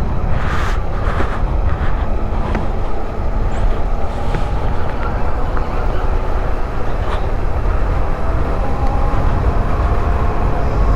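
Bajaj Dominar 400's single-cylinder engine running steadily on a ride, a constant low rumble with wind noise on the microphone.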